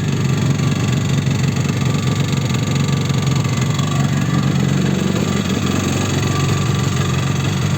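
Yamaha RD350 two-stroke twin engine running steadily at low revs with horrendous piston slap, the rattle of worn pistons with too much clearance in their bores.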